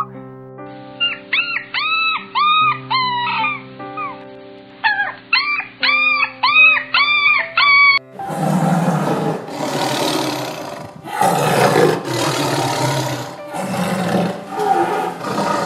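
Over held background music, a string of short, high, arching animal cries, about three or four a second. Then, about halfway through, a run of loud, rough tiger roars and growls, each about a second long.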